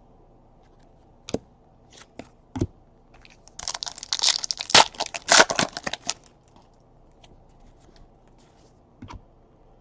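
Foil trading-card pack wrapper being torn open and crinkled, a dense crackle of about two and a half seconds starting roughly a third of the way in, with a few light clicks of card handling before and after.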